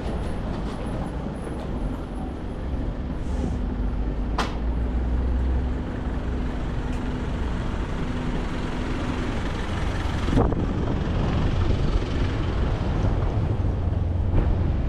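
City street traffic: a steady low rumble of passing vehicles with an engine hum. A sharp short squeak comes about four and a half seconds in, and a knock a little after ten seconds.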